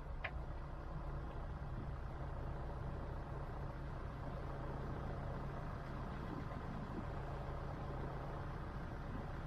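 Vehicle engine idling steadily with a low hum while stopped on a steep hill climb. A brief high squeak comes just after the start.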